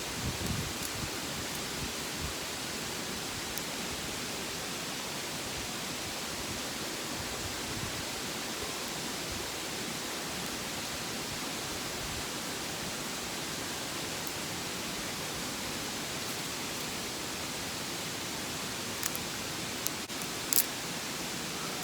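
Steady even rushing hiss, with a few short sharp clicks about nineteen to twenty-one seconds in.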